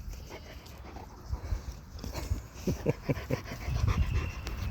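Livestock guardian dog panting close by in quick, short breaths, about five a second at the fastest.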